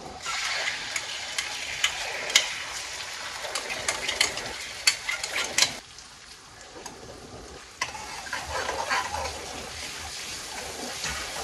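Spice paste frying in hot oil in a steel kadhai, sizzling steadily, with sharp clicks and scrapes of a spoon against the pan as it is stirred. The sizzling drops away for about two seconds just past the middle, then comes back.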